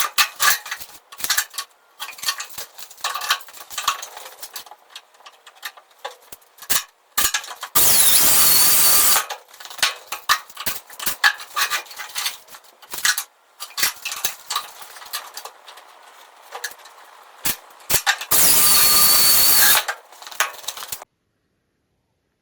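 Workshop clatter of wood being handled, with many sharp knocks and clicks, and a power saw running twice for about a second and a half each time, with a whine over the cutting noise.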